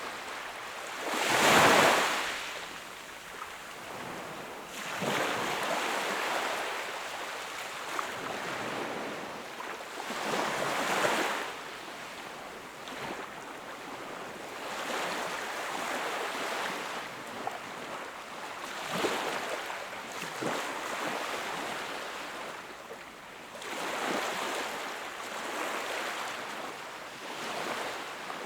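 Sea waves breaking and washing up the shore in repeated surges every four to five seconds, the loudest about a second and a half in.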